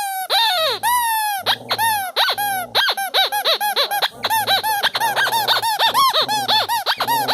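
Dog's squeaky toy squeaked over and over as the dog chews it: a quick run of high squeaks, each rising and falling in pitch, a few a second at first and faster in the second half.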